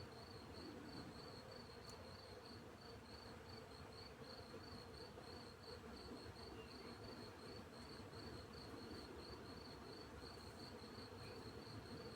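Field crickets chirping in a steady, even rhythm of about three chirps a second, over a low buzzing of bees flying about. Faint throughout.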